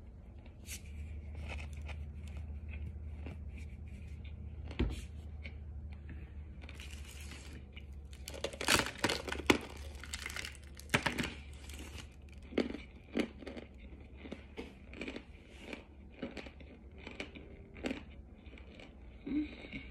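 Chalky white cornstarch-like chunks being bitten and chewed close to the microphone: a run of crisp crunches and crumbling crackles, loudest about halfway through, over a steady low hum.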